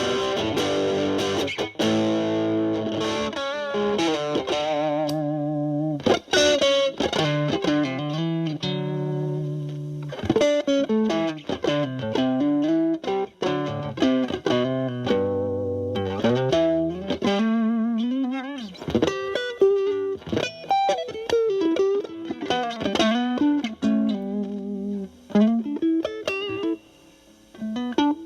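Stratocaster electric guitar through a Boss DS-2 Turbo Distortion pedal (turbo mode off, distortion knob around 10) into a Marshall Valvestate amp's clean channel. Distorted chords ring out at first, then single-note lead lines follow with string bends and wide vibrato, dropping out briefly near the end.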